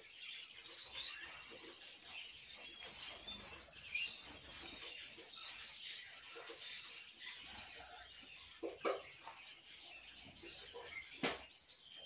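Small birds chirping and twittering without pause, high-pitched and fairly faint, with a few brief louder sounds in between.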